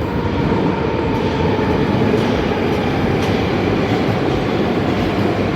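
Moscow metro train running between stations, heard from inside the carriage: a loud, steady rumble of wheels on the rails with a faint whine on top.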